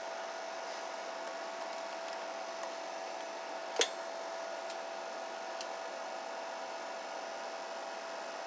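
Steady electrical hum and fan-like hiss from the running amplifier and power-supply bench setup while the amplifier is keyed with no modulation, with one short sharp click about four seconds in.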